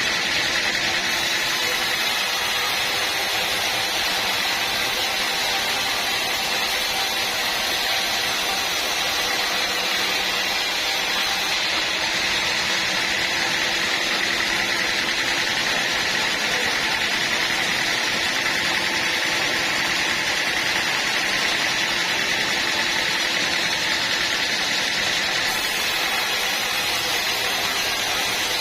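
Sawmill running steadily as it saws through a teak log, a constant machine noise with a high steady whine.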